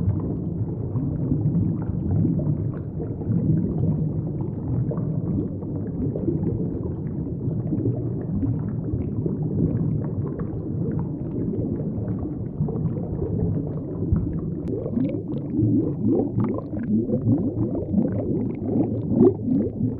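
Underwater ambience: a low, muffled rumble and gurgle. About two-thirds of the way in, it fills with rapid short rising blips.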